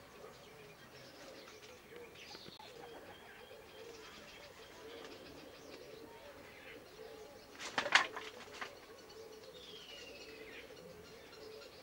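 Birds around foraging hens: a low cooing murmur repeats throughout, with two high calls that fall in pitch. About eight seconds in comes a brief, loud flutter.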